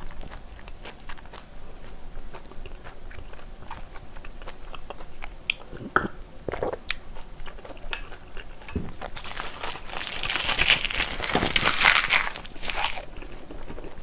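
Close-miked eating sounds: chewing with many small wet mouth clicks, then a louder stretch of crunching lasting about four seconds near the end.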